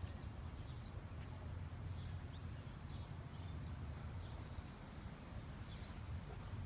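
Small birds chirping faintly now and then, short high calls over a low, steady background hum.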